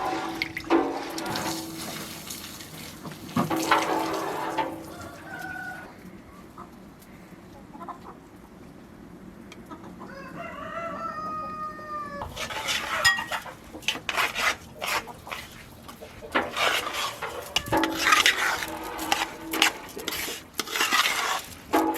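A rooster crows once, about ten seconds in, a call of about two seconds that rises and falls in pitch. Before and after it comes a run of knocks and clatter.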